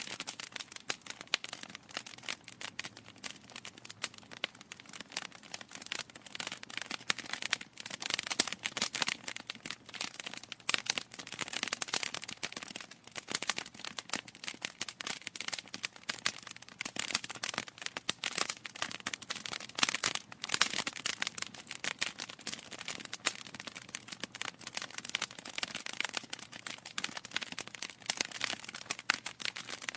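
Wood logs burning in a fireplace: a steady stream of irregular crackles and sharp pops, with a few louder clusters of popping.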